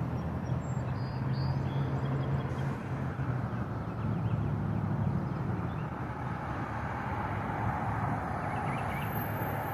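A motor vehicle's engine hum that fades out over the first half, over a steady rush of wind and road noise.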